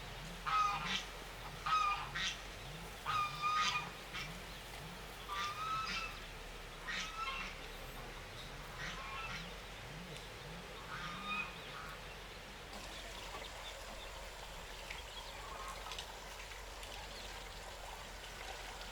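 Geese honking, a run of short calls that grow fainter and die away about twelve seconds in.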